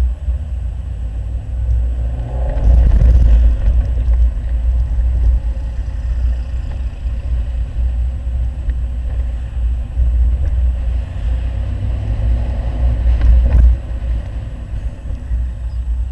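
Audi 100 2.3 quattro's five-cylinder engine running through a CAC aftermarket exhaust while driving, with a deep rumble that swells louder twice, a couple of seconds in and again near the end, as the engine is put under load.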